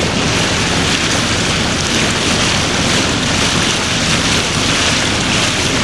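Hunter 28 sailboat under engine power: a steady low engine drone under a constant rushing hiss of wind and water.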